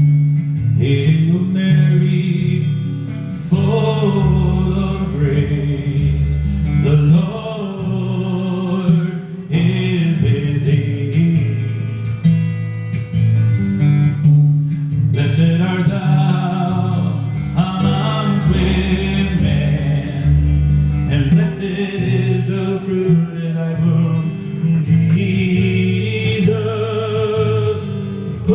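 Acoustic guitar accompanying a singer, with long wavering sung notes over steady strummed chords.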